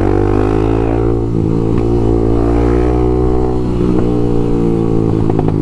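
Honda CBX 250 Twister single-cylinder engine with an open Leo Vince exhaust, running at a fairly steady engine speed while riding.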